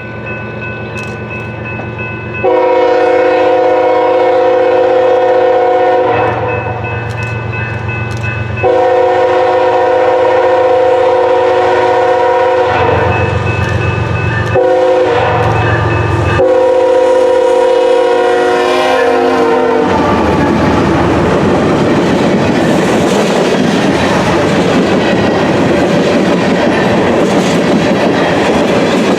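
Diesel locomotive horn sounding a series of blasts, a chord of several steady tones. After about twenty seconds the horn stops and the train's wheels clatter and rumble steadily along the rails as it rolls past.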